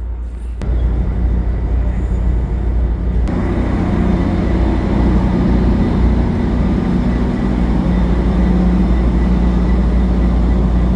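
EMD F59PH diesel locomotive engine running with a steady low drone. It gets louder in two steps, about half a second in and again after about three seconds, as the engine throttles up.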